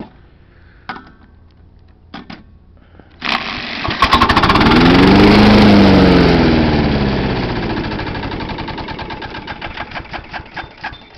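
Kawasaki FC150V single-cylinder engine of a John Deere JX85 walk-behind mower catching about three seconds in and picking up speed. After about two seconds it slows again, its firing strokes spacing out and fading as it runs down.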